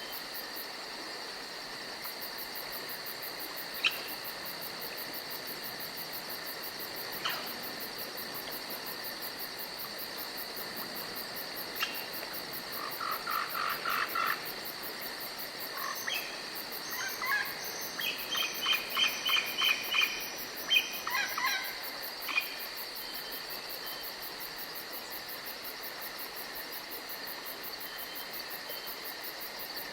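Steady high chirring of crickets. Through the middle a bird calls in quick runs of short repeated notes, and a few single sharp calls stand out on their own.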